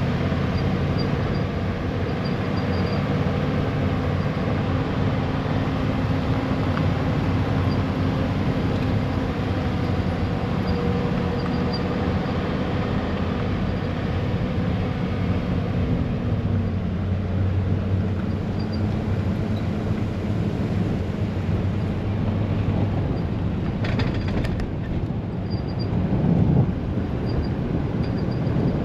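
A vehicle driving, its engine running steadily under road noise; the engine note drops about 16 seconds in. There is a brief knock about 24 seconds in.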